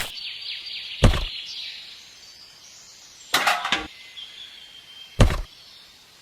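A few sharp knocks, one of them a short rattling cluster, over a steady high chirping outdoors.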